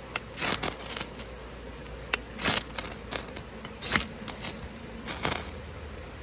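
Light metallic clinking and clattering in four short bursts, like small metal gear being handled or set down.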